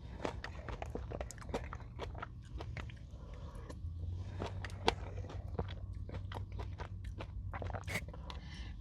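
Close-up crunching and chewing of a Nature Valley crunchy oat granola bar, with many irregular sharp crunches from bites and chews.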